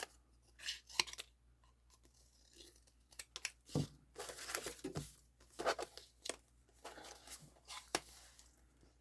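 Paper being cut and handled: scattered short, crisp snips and rustles of paper, with a longer stretch of rustling about four seconds in.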